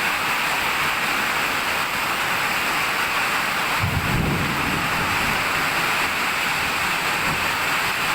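Summer-storm rain falling steadily, with a low rumble of thunder about four seconds in that lasts a second or so.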